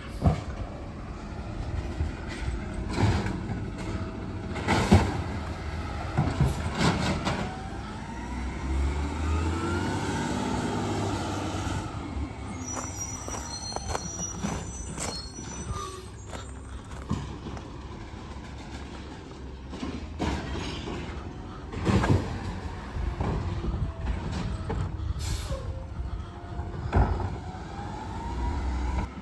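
Garbage truck at work: the engine runs steadily while loud bangs and clanks come at irregular moments, with a rising whine about a third of the way in.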